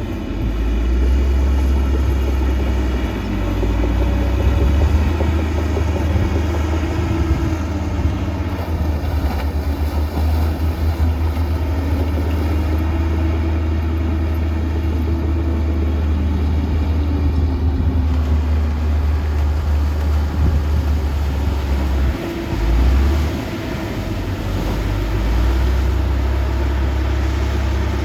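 Heavy diesel earthmoving machinery working, a deep engine rumble whose pitch slowly rises and falls as the engines rev and ease off under load, with a brief louder swell about three-quarters of the way through.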